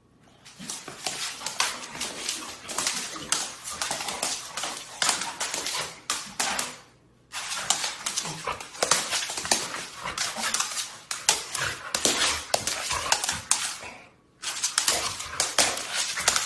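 A dog making a dense run of short, scratchy noises without clear barks, in three stretches that stop abruptly about seven and fourteen seconds in.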